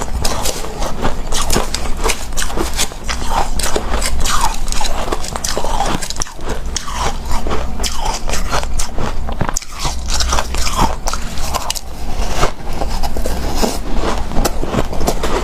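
Close-up biting and chewing of hard, powdery refrozen ice, a continuous run of crunching with soft squeaky crackles.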